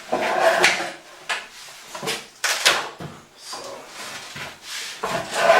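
A bathroom vanity cabinet being handled: several sharp knocks and clatters of its wooden doors and contents, with a louder rustling noise near the end.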